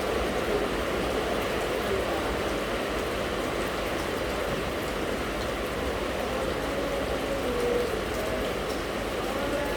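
Steady rain falling, an even hiss of drops without letting up.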